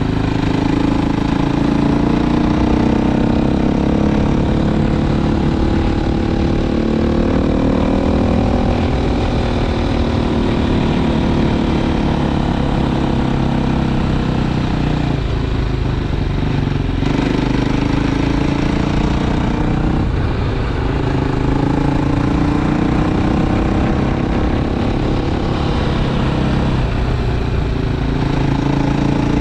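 Motorcycle engine heard while riding, its pitch rising and falling with the throttle and dipping briefly a few times, over a steady noisy rumble.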